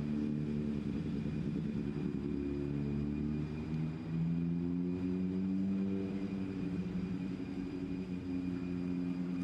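A motor vehicle engine running steadily, its pitch drifting slowly up and down.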